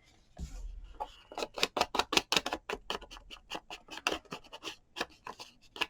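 A quick run of short scratching and rubbing strokes of hands on paper, many a second, after a softer rustle.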